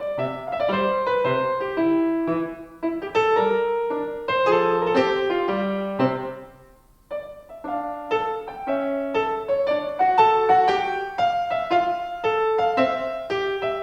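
Solo piano playing a slow piece of melody over chords. The notes die away into a short pause about halfway through, then the playing picks up again.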